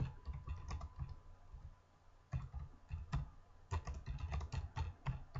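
Typing on a computer keyboard: a run of uneven keystroke clicks, with a short pause about two seconds in before the typing picks up again.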